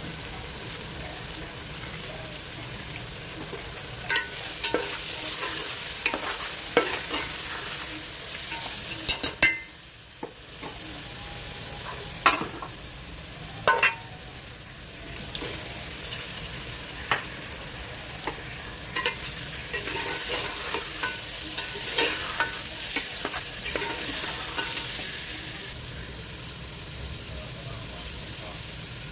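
Food sizzling in oil in a cooking pot while it is stirred, with a utensil knocking sharply against the pot at irregular moments. The sizzle swells and fades in stretches.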